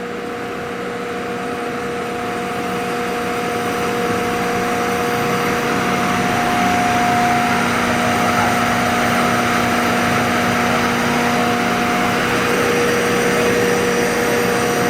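Northfield No. 7 planer running empty, its direct-drive cutterhead and feed rolls turning, with a steady hum that grows gradually louder. The feed's variable speed control rattles where it rides on a bearing, which is normal for this basic design at the higher feed speeds.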